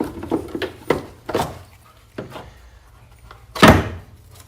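Scattered knocks and taps of hand work on a car, with one loud clunk about three-quarters of the way through. No engine is running.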